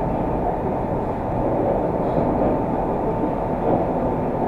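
Moscow Metro train running, heard from inside the car: a steady rumble of wheels and running gear, with no stops or changes.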